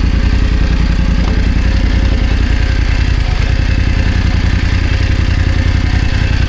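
BMW F900GS parallel-twin engine running steadily, its exhaust pulses even and unchanging.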